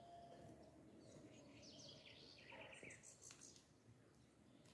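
Near silence: faint outdoor background with a few faint, high bird chirps in the middle.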